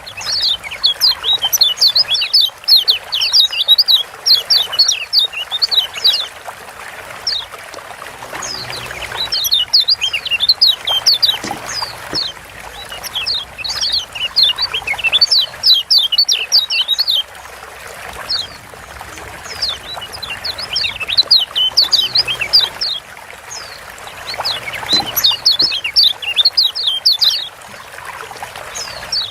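Lombok yellow white-eye (kecial kuning) giving fast runs of sharp, falling 'ciak' chirps. The chirps come in phrases of a few seconds broken by short pauses, over a steady hiss.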